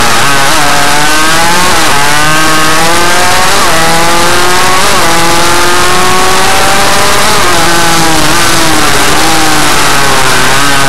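Small motorcycle engine revving hard through a lap, its pitch climbing steadily under acceleration and dropping back several times as the rider shifts or shuts off.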